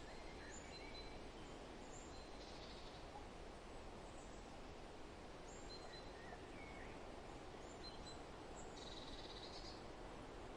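Quiet forest ambience: a steady rushing haze of wind in the trees, with scattered short, high bird chirps and calls, and a quick bird trill a little before the end.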